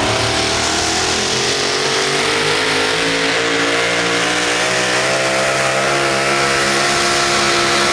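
Super modified four-wheel-drive pulling truck's engine running at full throttle during a pull, a loud steady howl whose pitch creeps slowly upward and then holds.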